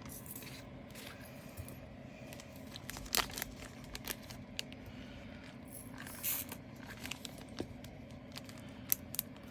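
Faint scattered clicks and light taps of diamond painting: resin drills picked up with a drill pen and pressed onto the sticky canvas, with a little crinkle of the plastic cover film.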